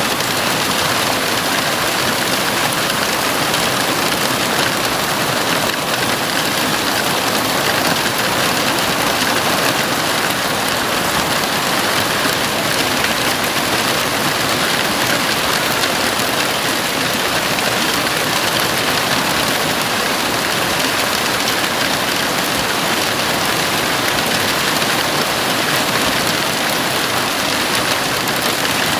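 Heavy rain falling steadily on a house roof, an even, unbroken hiss with no thunder or single drops standing out.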